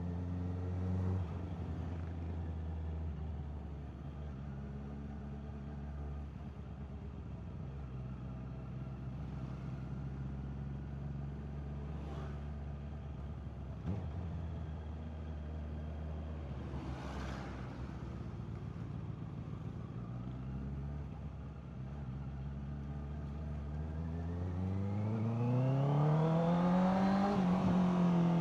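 Honda CBR650R's inline-four engine running through the exhaust at a steady pace, its pitch dropping about a second in. Near the end it revs up smoothly under acceleration to a peak, then the pitch falls as it shifts up.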